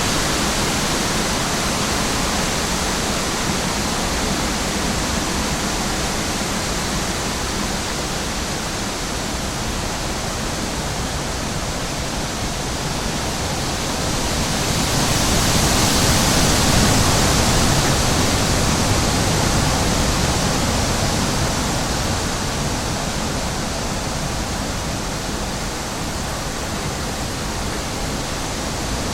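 Steady rushing wind that swells in a stronger gust about halfway through, then eases back down.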